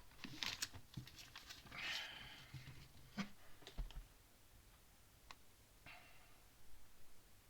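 Faint, scattered clicks and clatter of plastic Lego pieces being handled, with a short rustle about two seconds in.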